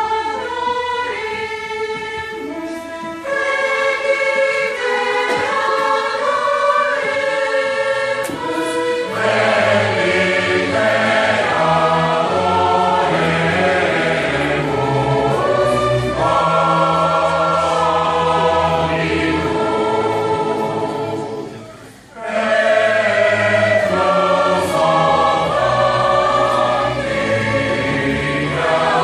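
A choir singing, with held notes that move from chord to chord. There is a brief break between phrases about three-quarters of the way through.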